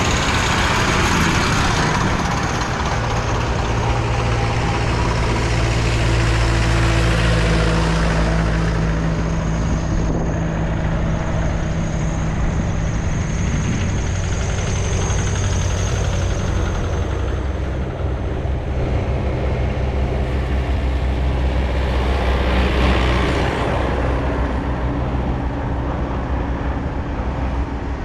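Diesel tractor engines running in a road convoy, a continuous mix of engine notes whose pitch and make-up change every several seconds as different machines sound loudest.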